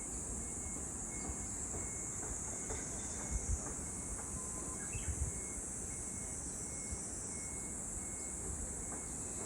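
Steady high-pitched insect chorus, with a faint short chirp repeating about twice a second, over a low wind rumble with a couple of soft thumps.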